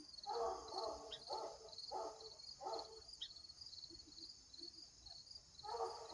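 Insects chirping in a steady, evenly pulsing high trill. Four short, louder mid-pitched sounds come in the first three seconds and another near the end.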